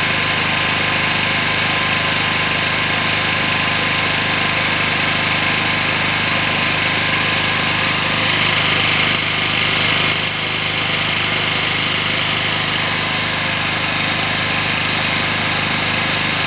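Small generator engine running steadily after an automatic start. About ten seconds in, a rise in hiss ends and the level dips slightly.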